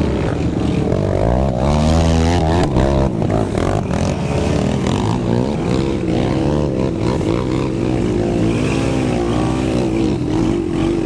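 Four-wheeler (quad) engine revving hard and easing off again and again, its pitch rising and falling while working through deep mud.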